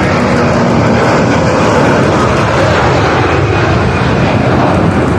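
Loud, steady jet noise from an Airbus A330's turbofan engines as the airliner takes off and flies away.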